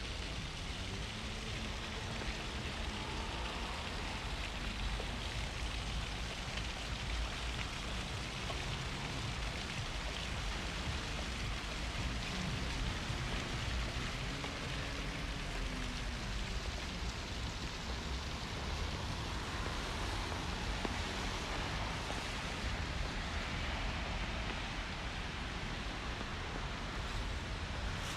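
Steady rain falling on a city street, an even hiss with a low traffic rumble underneath.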